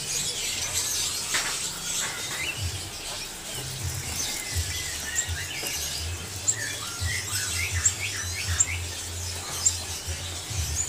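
Many caged songbirds chirping and calling at once, in a busy tangle of short notes, with sharp, very short high chirps in the second half over a low rumble.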